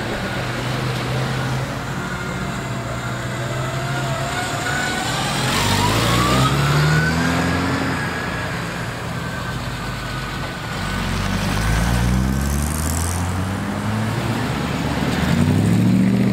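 Classic cars driving off one after another, each engine rising in pitch as it accelerates away, several times over.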